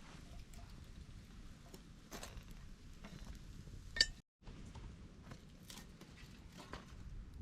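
Coffee gear being handled: scattered small clinks and knocks, with one sharp ringing clink about four seconds in.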